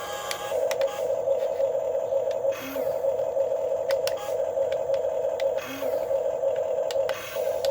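Electric motors and gearboxes of a Huina 1550 radio-controlled model excavator whirring as it works, stopping and restarting briefly about every second and a half. Light clicks and a couple of short scrapes from sand being dug and dumped.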